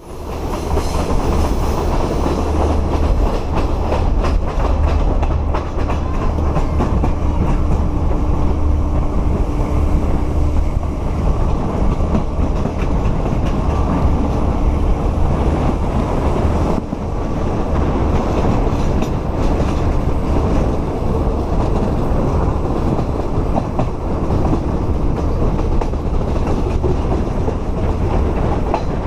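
Passenger train running along the line: a steady, loud rumble with wheels clicking over the rail joints.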